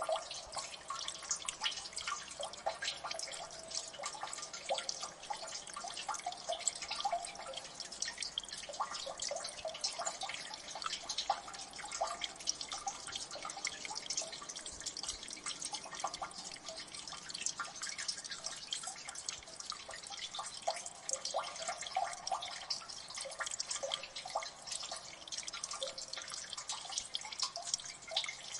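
Water dripping in a gully: many small drips falling at once, overlapping into a dense, steady stream of light ticks and splashes.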